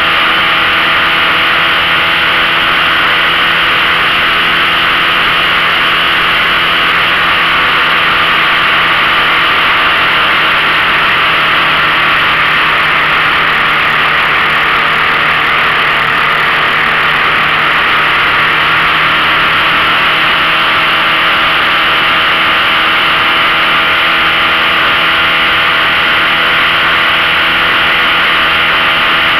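15 hp outboard motor running steadily at an even pitch under load, with a loud steady rush over it.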